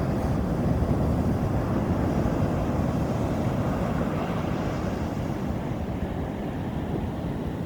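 Ocean surf at high tide with wind buffeting the microphone: a steady low rumble of breaking waves, easing a little near the end.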